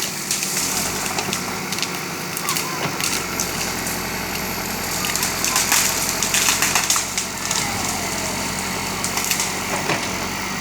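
JCB backhoe loader's diesel engine running steadily while wood cracks and splinters as the tree is broken and pushed over, with a thicker run of crackling about five to seven seconds in.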